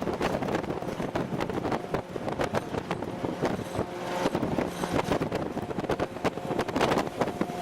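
Military convoy vehicle driving: engine and road drone with constant rattling and clanking, and wind buffeting the microphone.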